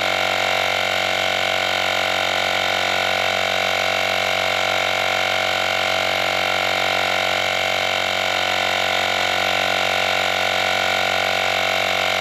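Rechargeable mini tyre-inflator compressor running steadily, a loud even drone with a set of fixed tones, as it pumps up a motorcycle tyre toward its preset 38.5 psi.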